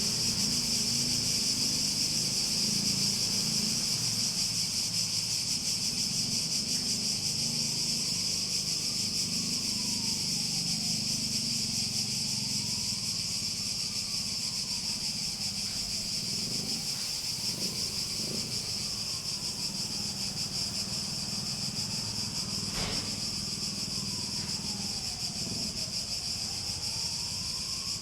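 Cicadas buzzing in a steady, high, unbroken drone.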